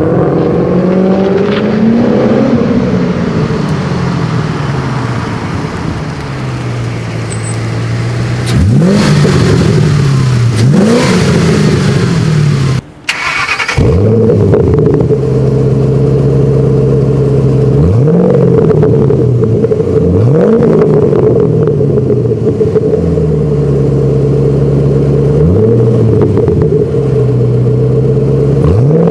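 2008 Ford Mustang GT's 4.6-litre V8 through a Borla Stinger S-Type axle-back exhaust with a Pypes X-pipe, idling and being blipped about seven times. Each rev rises sharply and falls back to idle. The sound drops out briefly about halfway through.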